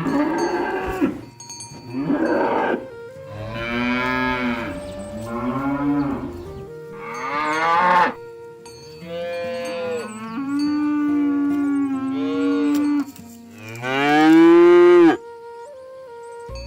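Cattle mooing: a run of long moos one after another, each swelling and bending in pitch, the loudest near the end.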